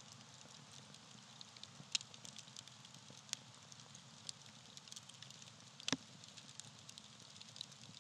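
Campfire of dry tree bark crackling and popping: a faint steady hiss with irregular sharp snaps, the loudest about two, three and a half and six seconds in.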